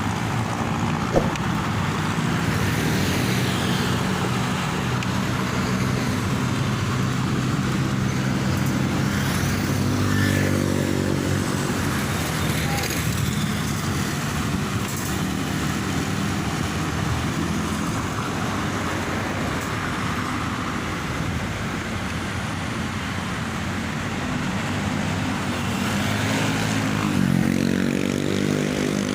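Road traffic heard from a moving vehicle: a steady road noise with an engine note that rises as the vehicle speeds up around ten seconds in and again near the end. There is a single sharp click about a second in.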